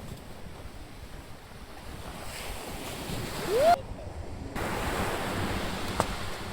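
Ocean surf washing in steadily, with wind buffeting the microphone. About three and a half seconds in there is a brief rising tone, the loudest moment, and the sound then cuts off abruptly for under a second.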